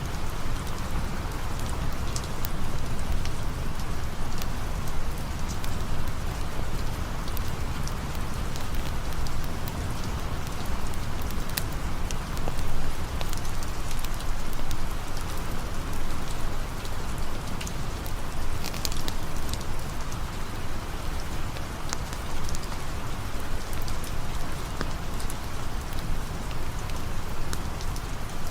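Steady rain falling: a dense, even hiss with scattered sharp ticks throughout.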